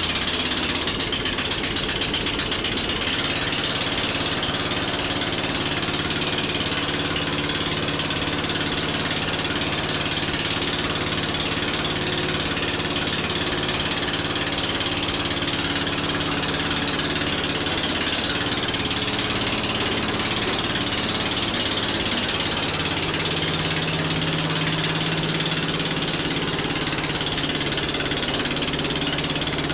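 Briggs & Stratton 14.5 hp OHV garden tractor engine running steadily just after a cold start, its first run in more than six years. Its note shifts slightly about 23 seconds in.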